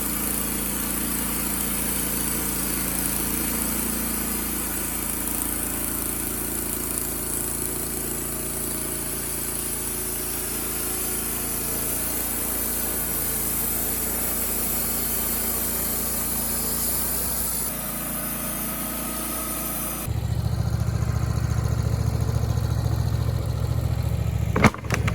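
Wood-Mizer LT15 Wide portable bandsaw mill running steadily while sawing an oak log. About 20 seconds in, the sound changes abruptly to a louder, lower, pulsing engine note, and a sharp click comes near the end.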